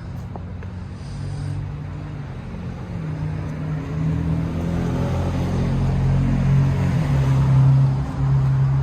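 A vehicle engine running, a steady low drone that grows louder from about three seconds in.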